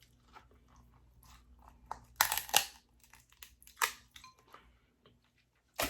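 King crab leg shell cracking and snapping as it is broken apart to get at the meat: a pair of sharp cracks about two seconds in, another near the middle and one more at the end.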